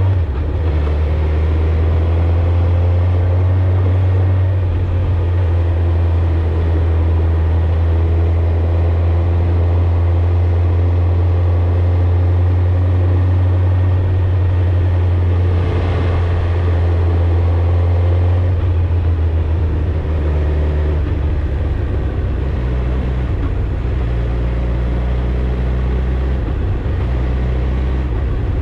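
Suzuki GSX-R1000's inline-four engine and exhaust running steadily while the motorcycle is ridden, heard on board as a deep, loud drone. A brief rushing swell comes about halfway through, and the engine note changes a little after it.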